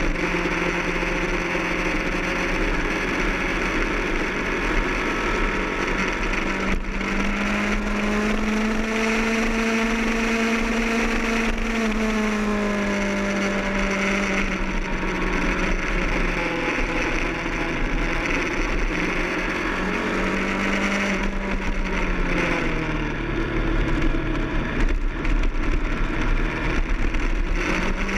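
Kawasaki ZX-10R's inline-four engine pulling hard at high revs, heard onboard over rushing wind. Its pitch climbs and holds through the first half, dips briefly, falls away steeply about two-thirds of the way through, then climbs again near the end.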